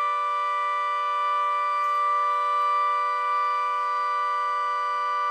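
A steady electronic chord of several held tones, loud and unchanging in pitch, like a synthesized siren or sustained keyboard note.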